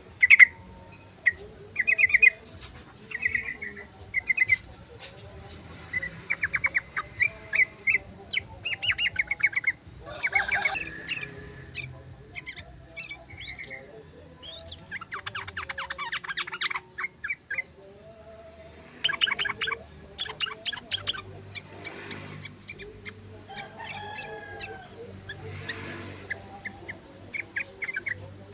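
Yellow-vented bulbul (trucukan) singing and chattering: short bubbly phrases and rapid runs of chattering notes, repeated again and again with brief pauses between.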